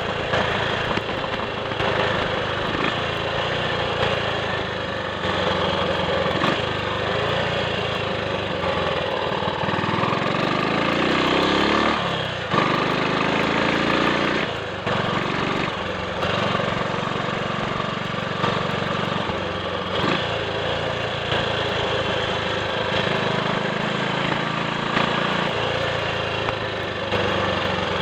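Triumph Sports Cub's single-cylinder four-stroke engine running under way on the road. In the middle its pitch climbs twice, each time followed by a short drop, as it accelerates through the gears.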